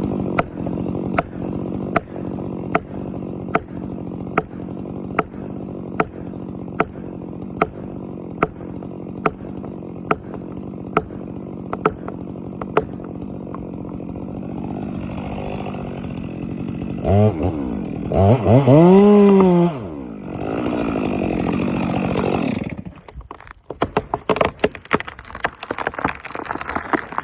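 Chainsaw running steadily, then revved up sharply and dropping back partway through. Near the end the saw gives way to a rapid run of cracks and snaps as a felled pine tree breaks and comes down.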